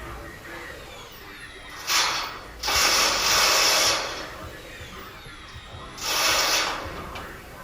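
Handheld power tool running in three short bursts: a brief one about two seconds in, a longer one of just over a second, and another of under a second near the end.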